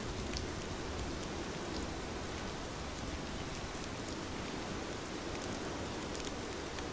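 Steady rain falling, an even hiss with a few light drop ticks.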